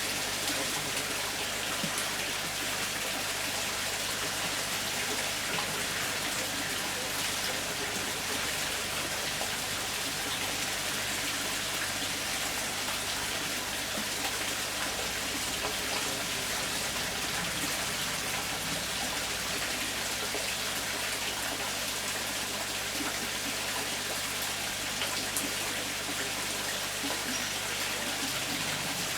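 Steady hiss of water, unbroken and even throughout.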